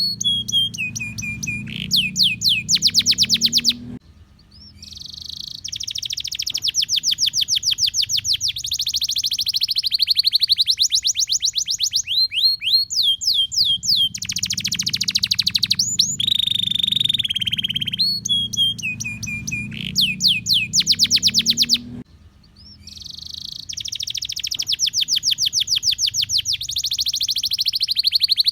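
Domestic canary singing a long, continuous song of fast trills and rolls, mixed with whistled glides and buzzy notes. The same stretch of song comes round again about every 18 seconds, as in a looped recording.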